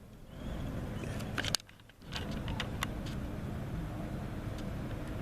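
Outdoor ambience: a steady low rumble with scattered sharp clicks and ticks. The sound drops away briefly at the start and cuts out for about half a second in the middle, with a click just before the gap.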